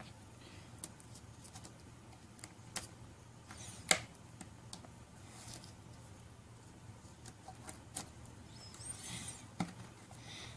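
Small plastic toy parts being handled and snapped together: scattered faint clicks with one sharper click about four seconds in, and soft rustling now and then.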